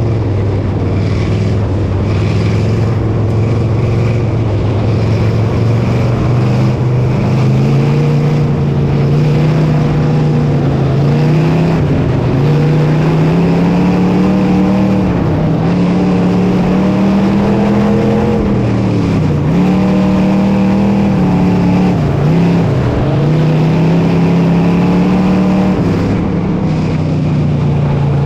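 Dirt modified race car's V8 engine racing laps on a dirt oval. Its pitch climbs and falls again and again, dipping sharply every few seconds as the throttle comes off for the turns.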